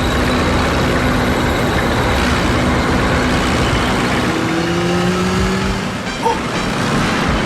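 Loud car engine sound effect, a steady running noise with a faint rising whine around the middle.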